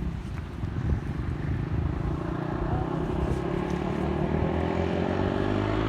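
Honda 400EX ATV's single-cylinder four-stroke engine running under throttle, climbing steadily in pitch and growing louder from about halfway through.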